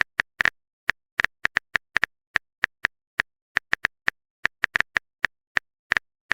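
Phone keyboard typing sound effect: a run of identical short, crisp taps at an irregular typing pace of about three or four a second, as a text message is typed out.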